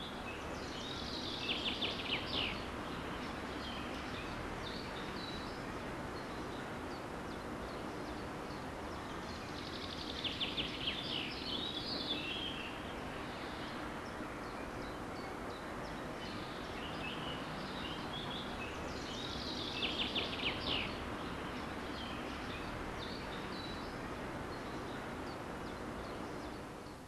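Songbird singing over a steady outdoor hiss: a short, fast trilled phrase comes three times, about nine seconds apart, with fainter chirps in between.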